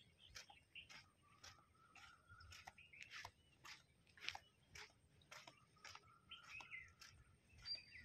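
Faint bird chirps and short whistled calls, with light sharp clicks repeating about twice a second.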